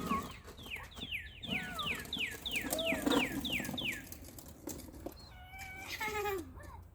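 Northern cardinal singing: a rapid run of about a dozen clear down-slurred whistles, roughly three a second, lasting about four seconds. A shorter, buzzier phrase follows near the end.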